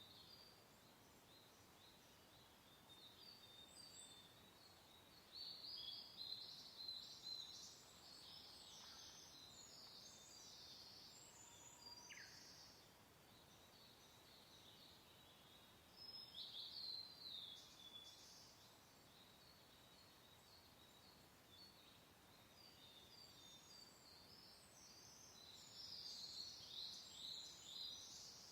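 Several songbirds chirping faintly in clusters of quick high notes that come and go every several seconds, over a soft, even hiss of wind.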